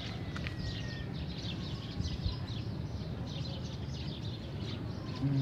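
Small birds chirping in quick, repeated short calls over a steady low background hum of outdoor noise.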